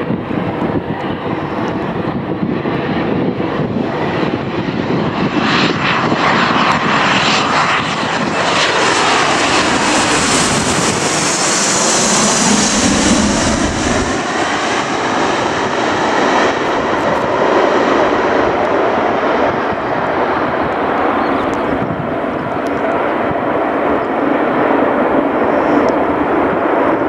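Twin turbofan jet engines of an Embraer E145 airliner passing by low, a steady rushing roar that grows brighter and hissier to a peak about halfway through, with a sweeping whoosh as the aircraft goes past, then carries on steadily as it moves away.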